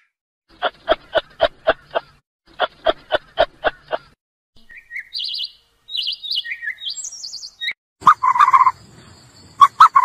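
Animal calls: two quick runs of short, evenly spaced calls at about five a second, then a string of high bird chirps. A louder, lower call comes near the end, followed by a few quick notes.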